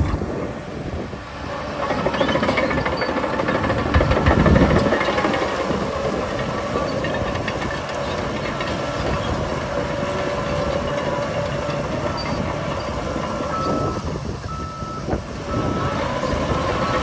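Crawler bulldozer's diesel engine running under load with clattering tracks as it pushes soil, with a louder low surge about four seconds in. A reversing alarm beeps steadily near the end.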